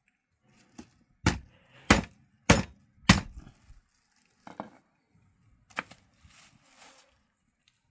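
Chopping with a blade on a hard surface: a run of sharp strikes about every 0.6 s, the loudest four or five in the first three seconds, then a few lighter knocks.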